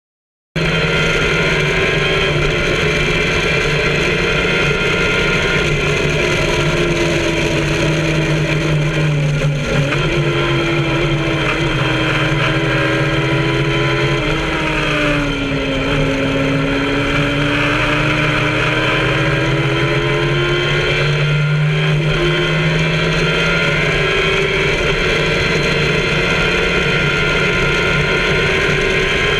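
Kawasaki ZX-10R inline-four motorcycle engine in an MK Indy track car, running hard at speed around a circuit and heard from the open cockpit. Its pitch dips and climbs again a few times as the driver lifts and gets back on the power. It starts abruptly about half a second in.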